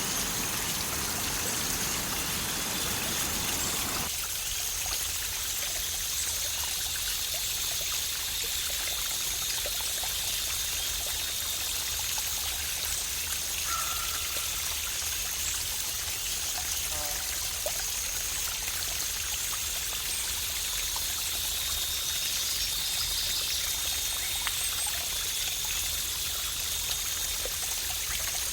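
Running water of a cascade, a steady rushing hiss. About four seconds in, the deeper part of the sound drops away abruptly, leaving mostly a high-pitched rush.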